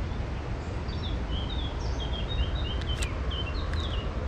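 Small birds chirping in short, scattered notes over a steady low rumble, with a couple of brief clicks about three seconds in.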